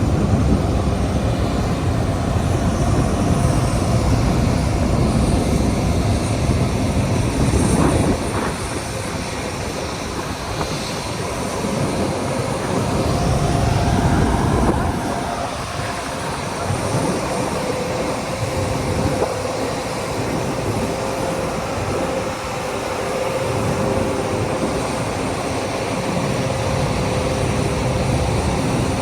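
Jet aircraft engine noise: a loud, steady rumble with a held whine over it. It drops a little about eight seconds in, then swells again with a brief rising-then-falling whine about fourteen seconds in.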